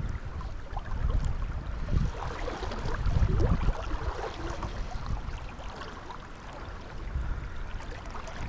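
Flowing river water, with wind on the microphone making a gusty low rumble.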